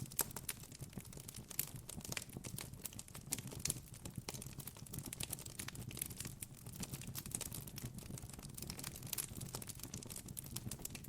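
Campfire crackling: wood burning with dense, irregular snaps and pops over a low rumble from the flames.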